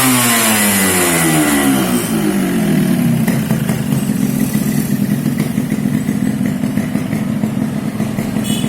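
Yamaha RX-S two-stroke single-cylinder motorcycle engine running through a whistle-type aftermarket exhaust. The revs fall away over the first two seconds or so, with a faint high whistle, and the engine then settles into a steady idle.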